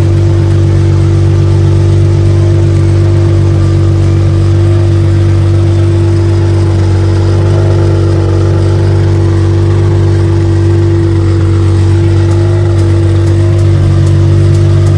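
Lamborghini Murciélago LP 670-4 SV's 6.5-litre V12 engine running steadily at an unchanging engine speed, loud and even throughout.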